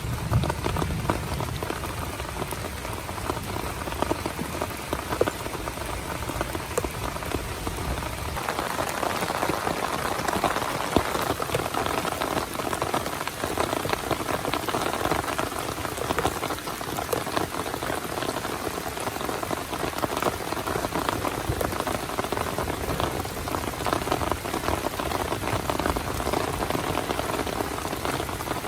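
Heavy rain pattering on a small tent, a dense, steady patter of drops. A low rumble sits underneath for the first eight seconds or so, then fades.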